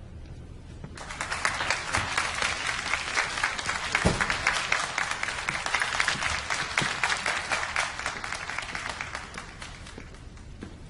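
Audience applauding: a crowd's clapping starts about a second in, holds steady, then thins out near the end.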